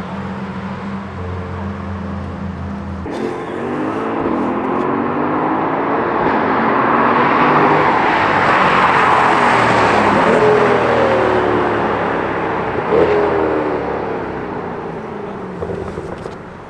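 Chevrolet Corvette C8's V8 engine accelerating hard through several gears, its pitch climbing and dropping at each shift. It grows louder as the car comes past, gives one sharp pop about two-thirds of the way in, and fades away near the end.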